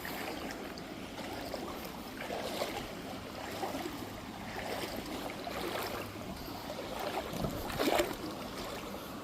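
Legs wading through knee-deep river water, each stride swishing and splashing, over the steady rush of the flowing river.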